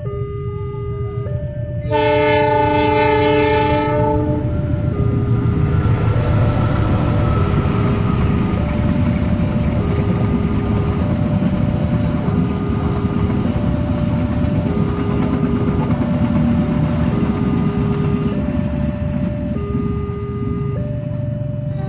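Level-crossing warning signal chiming, alternating between a lower and a higher tone about every second. About two seconds in, a diesel locomotive's horn sounds for about two seconds, then a passenger train rumbles across the crossing, its noise easing near the end.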